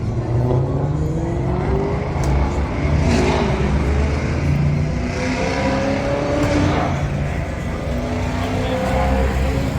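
Car engine revving several times, its pitch rising with each rev over a heavy low rumble.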